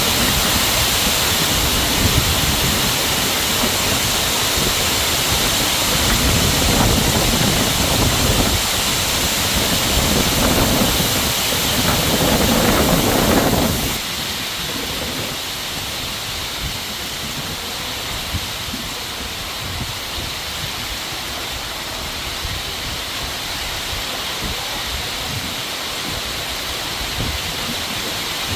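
Heavy rain falling as a steady hiss, with low rumble underneath in the first half. About halfway through the sound suddenly drops to a quieter, thinner rain hiss.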